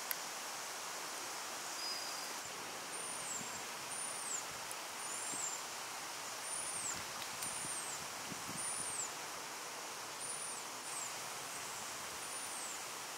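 A bird repeating a high, thin note that rises and falls, about once a second, from a couple of seconds in to near the end, over a steady outdoor hiss of wetland ambience.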